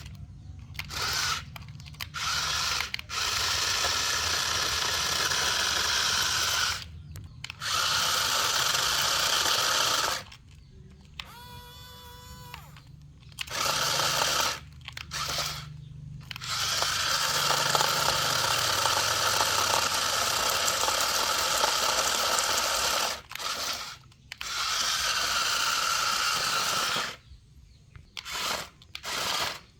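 Small electric motor and gears of a toy dump truck whirring in stretches of a few seconds, starting and stopping abruptly. A quieter, steady whine comes in about twelve seconds in.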